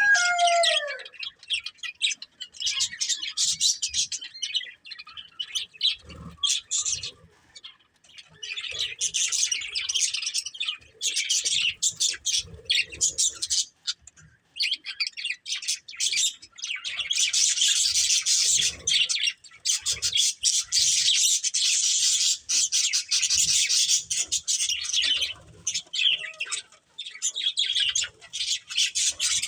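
A flock of budgerigars chattering and chirping in fast, busy warbles with short pauses, thickest in the second half. At the very start a louder call slides down in pitch and fades.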